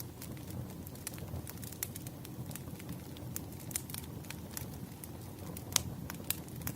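Wood fire crackling: a steady low rush of burning logs with frequent sharp pops, one louder pop a little before the end.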